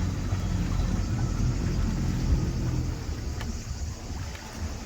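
Low rumble of a tour boat under way, its engine and the rush of passage, easing off about three seconds in.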